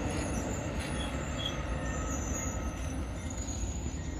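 Amtrak passenger train's coaches rolling away on the rails: a steady low rumble that fades slowly, with faint high wheel squeals now and then.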